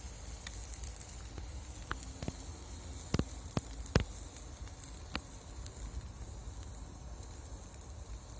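Meat sizzling over a charcoal fire, a steady hiss with a few sharp crackles and pops, the loudest about four seconds in.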